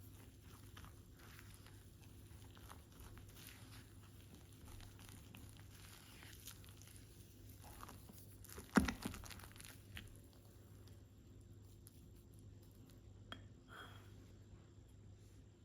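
Faint household handling noises: light rustling and scraping over a steady low hum, with one sharp knock about nine seconds in.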